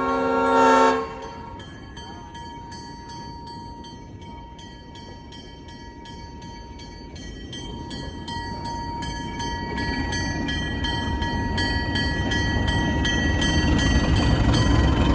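Diesel locomotive's air horn sounding a chord, cutting off about a second in. Then a bell rings about three times a second while the locomotive's diesel engine grows steadily louder, rumbling as it throttles up.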